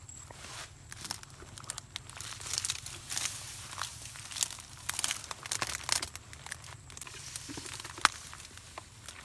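Dry leaves and plant material rustling and crackling in irregular bursts, with a sharp snap about eight seconds in.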